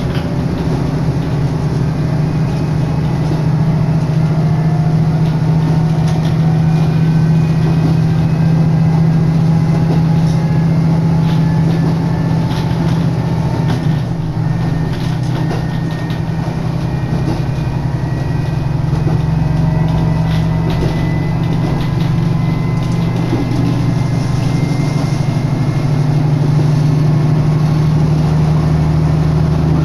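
Diesel railcar running along the line: a steady low engine drone under faint gliding whines, with wind rushing in through an open window and a few clicks around the middle.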